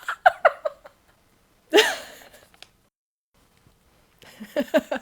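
A woman laughing in separate recorded laughs. One laugh ends in quick breathy pulses, a short rising-and-falling laugh sound comes about two seconds in, and after a pause a new laugh starts with rapid "ha-ha" pulses, several a second, near the end.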